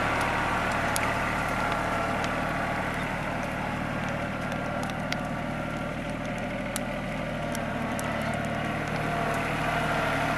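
An engine idling steadily, with scattered sharp clicks over it.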